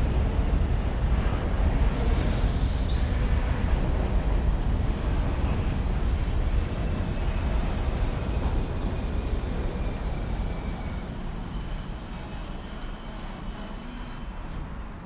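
Train running through the station, a heavy low rumble that gradually fades as it moves away, with a brief hiss about two seconds in and faint high-pitched squealing tones near the end.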